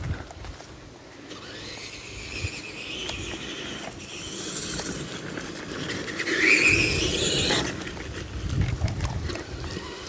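Tamiya TXT-2 RC monster truck's drive motor and gearbox whining as the throttle is worked, rising in pitch about a second in and again, louder, near the six-second mark. The tyres crunch and knock through brush under the whine.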